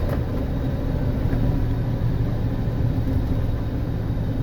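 Car driving along a city street, a steady low rumble of engine and road noise heard from inside the cabin.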